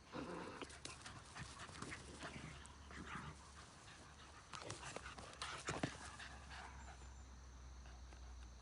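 A beagle panting, quietly, with faint scattered clicks and scuffs; a few slightly louder short sounds come about two-thirds of the way through.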